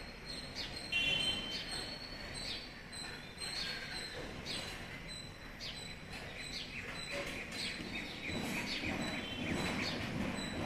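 Bird chirping in repeated short calls, about one a second, over steady background noise.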